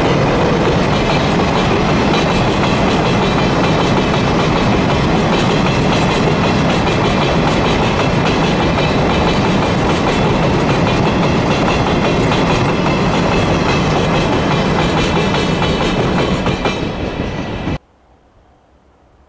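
A train running past at close range, a steady loud noise of wheels on the rails that cuts off suddenly near the end.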